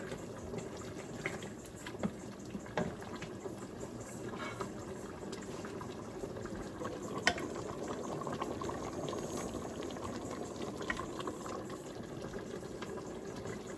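Pot of chicken and dumplings bubbling on the stove at a low boil, a steady bubbling with scattered small pops.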